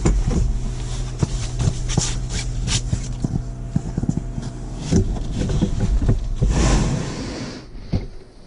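Steady low machine hum from a sawmill, with scattered knocks and clicks of gear being handled over it, and a longer scraping noise about seven seconds in.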